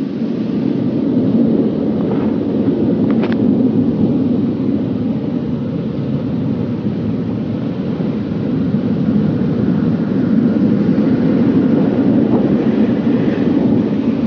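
Automatic car wash equipment running, a loud, steady rushing noise heard from inside the car.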